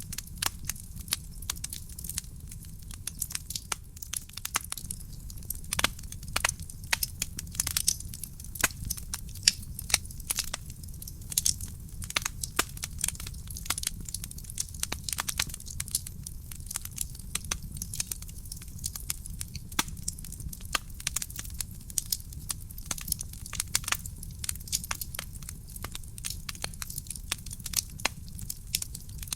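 Wood fire burning in a fireplace: a steady low rumble of the flames under dense, irregular crackles and pops from the burning logs.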